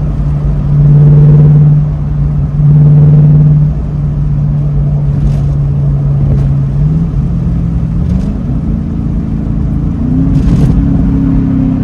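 Tuned Camaro SS's L99 6.2-litre V8 pulling the car along: a steady low engine drone that swells loudly twice, then the engine note climbs about seven seconds in as the car speeds up.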